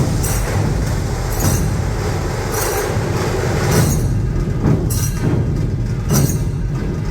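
Dhol-tasha ensemble drumming loudly: a dense, continuous beat of big dhol drums under rapid tasha strokes, with a bright crash accent about once a second.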